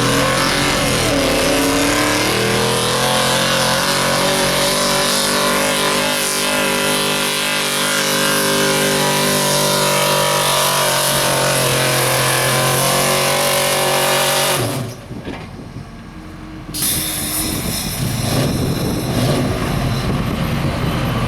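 Pulling truck's engine at full throttle under load, its pitch climbing over the first few seconds and then holding steady. About fifteen seconds in the engine cuts off abruptly, and loud engine noise builds again a couple of seconds later.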